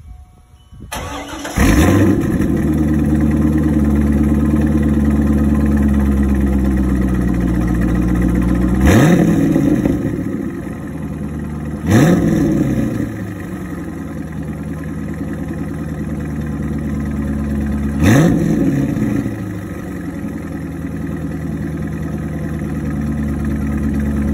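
C5 Corvette's LS V8 breathing through a Corsa aftermarket exhaust, cold-started: a short crank about a second in, then it catches and settles into a high cold idle that slowly sags in pitch. Three quick revs follow a few seconds apart, each a sharp rise and fall in pitch before dropping back to idle.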